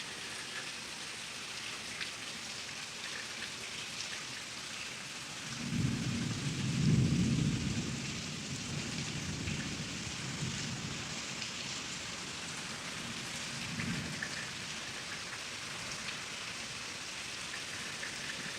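Steady rain falling hard. A rolling rumble of thunder builds a few seconds in, peaks, and fades over about four seconds, and a fainter rumble follows later.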